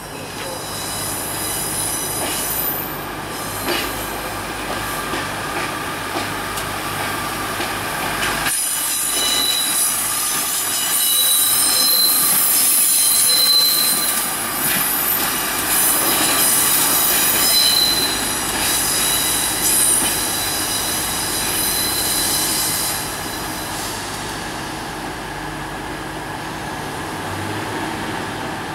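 Pacer four-wheeled diesel railbus moving through station trackwork over a steady rumble, its wheels squealing in high drawn-out tones on the curves. The squealing is loudest in the middle. The sound changes abruptly about eight seconds in.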